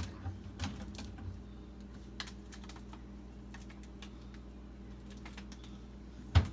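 Plastic water bottles clicking and tapping as they are handled and set into a refrigerator, over a steady low hum, with one loud thump near the end.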